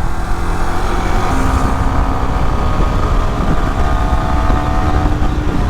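Yamaha R15 V3's single-cylinder engine running steadily in neutral, its pitch sagging slightly, over a constant low rumble.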